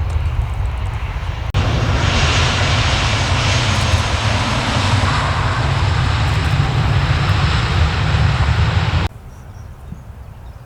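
Airliner engine noise over a heavy low rumble. A louder, fuller stretch of engine noise starts abruptly about a second and a half in and cuts off suddenly about nine seconds in, leaving a much quieter rumble.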